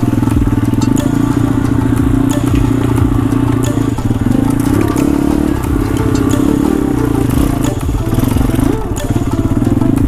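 Pit bike's small single-cylinder engine running under throttle while being ridden, its pitch dropping and rising again a few times as the throttle is eased and opened, with scattered light clicks.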